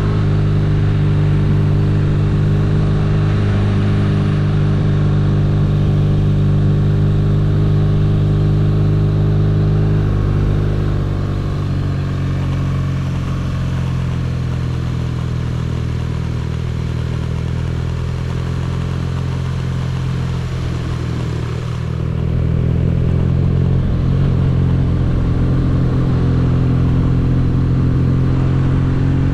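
BMW R nineT's boxer-twin engine running at steady revs on the move. It eases off and gets a little quieter about a third of the way in, then picks up again about three-quarters through.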